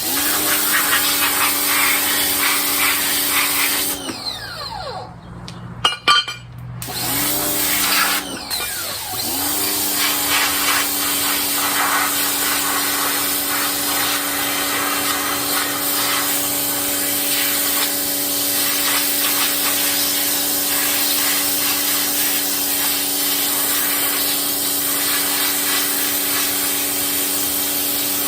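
Small Ryobi electric pressure washer running and spraying: a steady motor-and-pump hum under a loud water hiss. Between about four and nine seconds in, the motor stops and spins back up three times, then it runs steadily.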